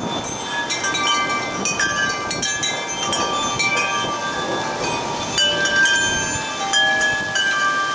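Wind chimes ringing in the storm wind, many clear tones overlapping and changing, over a steady hiss of rain.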